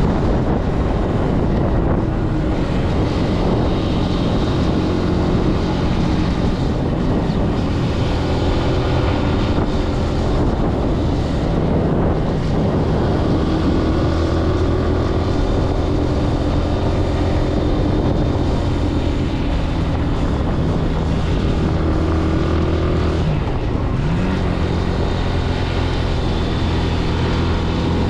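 A Zontes C125 125cc motorcycle engine running under way, its note steady with the pitch dropping and then climbing back about twelve seconds in and again near the end. Wind buffets the microphone.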